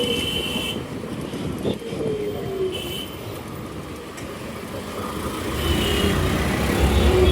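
Busy road traffic heard from a moving scooter, with short vehicle horn toots at the start, about three seconds in and about six seconds in. A heavier low rumble sets in about five and a half seconds in.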